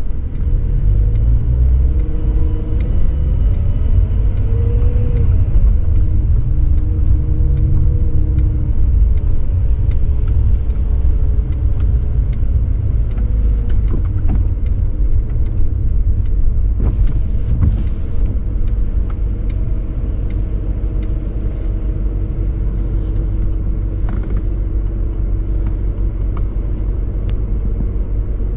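The exhaust and engine of a 2003 BMW 540i's 4.4-litre V8 under way, with a deep rumble whose pitch rises and falls a little. Faint scattered ticks are heard throughout.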